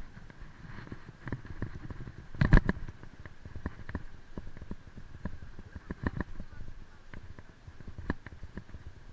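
Bicycle rattling and knocking as it is ridden over uneven ground: a run of irregular sharp knocks, with one loud jolt about two and a half seconds in.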